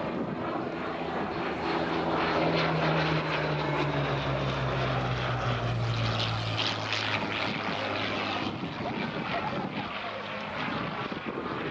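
Hawker Hurricane Mk IIB's Rolls-Royce Merlin V12 engine passing in a flypast. Its drone grows louder, drops in pitch as it goes by about halfway through, then eases off.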